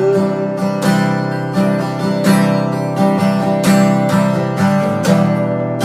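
Acoustic guitar strumming a steady rhythm in an instrumental passage of an indie folk-pop song, with no vocals.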